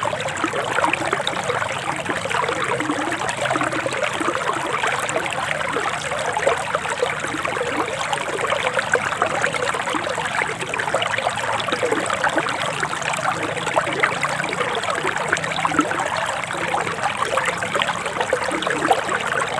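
Forest river water flowing steadily.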